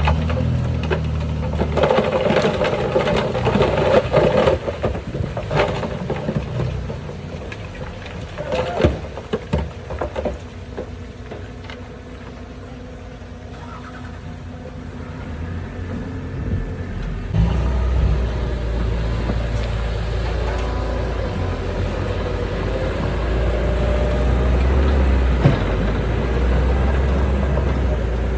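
Heavy diesel earthmoving machinery running, with repeated metallic clanks and knocks over the first ten seconds or so. About 17 seconds in, a deeper, steady engine drone takes over.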